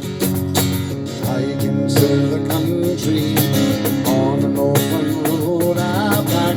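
Live acoustic band music: a strummed acoustic guitar over a steady beat of cajon hits, with a wavering melody line coming in on top about a second in.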